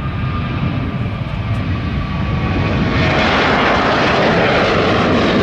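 Jet airliner engines heard from close by: a low rumble that swells about three seconds in into a loud, steady rushing jet noise as the aircraft draws nearer.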